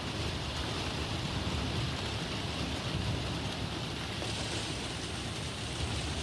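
Heavy thunderstorm rain falling steadily, with a low rumble underneath; the highest part of the hiss thins a little about four seconds in.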